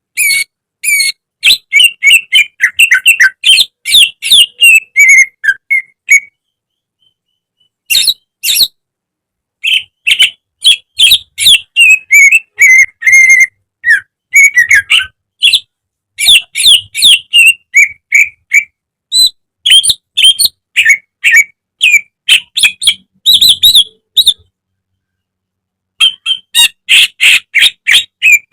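Cucak ijo (greater green leafbird) singing: rapid runs of loud chirps and whistled notes, several a second, broken by short pauses about six seconds in, around ten seconds and near twenty-five seconds.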